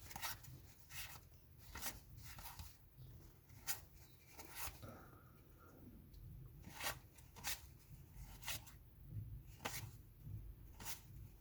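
1991-92 SkyBox basketball trading cards being handled and flipped through one by one: faint, irregularly spaced soft clicks and rustles of card stock.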